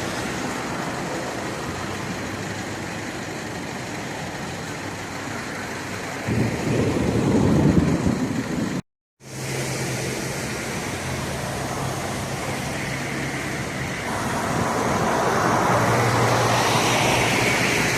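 Motor vehicle and road traffic noise, a steady rush with a low engine hum, louder for a few seconds before a brief total dropout about halfway through, then swelling again near the end.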